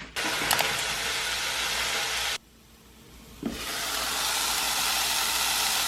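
Bulgogi beef kimchi fried rice sizzling steadily as it fries. The sizzle stops abruptly about two and a half seconds in, then comes back about a second later and builds up to a steady sizzle again.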